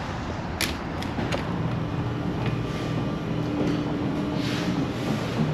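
Steady rumbling background noise, like traffic or a vehicle, with a few sharp clicks in the first second or so and a faint steady hum through the middle.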